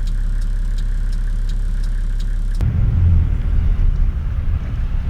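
A vehicle driving along a road: steady low engine and road rumble with a light regular ticking about three times a second. About two and a half seconds in, the sound changes abruptly to a louder, rougher low rumble.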